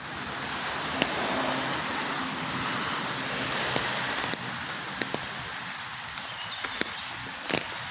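Steady rain hiss, louder in the first half, with scattered sharp drip hits close by.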